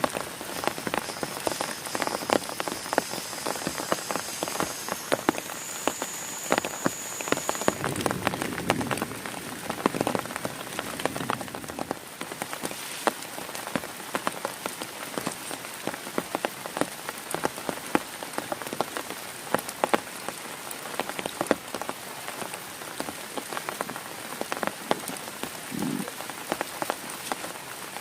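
Heavy rain falling steadily on a tent, with many individual drops striking close by.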